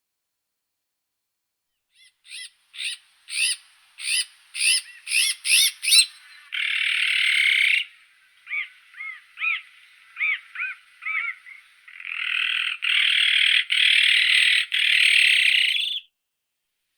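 Azure-winged magpie calling: a quickening series of short, rise-and-fall notes, then a harsh drawn-out rasp, more short notes, and a long run of harsh rasping calls that stops shortly before the end.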